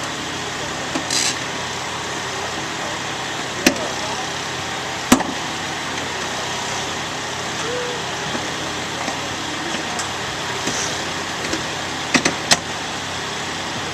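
A steady engine running, with a few sharp knocks: a single one about four seconds in, another about a second later, and two close together near the end. Faint voices in the background.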